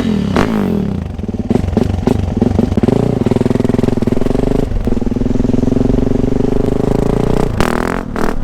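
Yamaha YZ450F dirt bike's 450 cc single-cylinder four-stroke engine running: its pitch falls off after a rev at the start, holds steady for several seconds, then rises sharply in a quick rev near the end.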